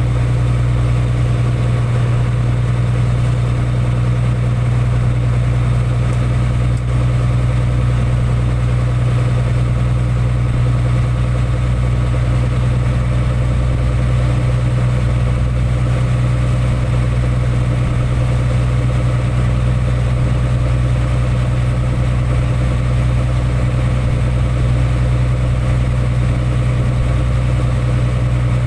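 Fishing boat's engine running steadily, with an even, low hum that holds the same pitch throughout.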